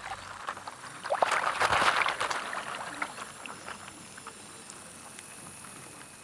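Water swishing and sloshing, loudest for a second or so starting about a second in, then settling to a faint steady wash.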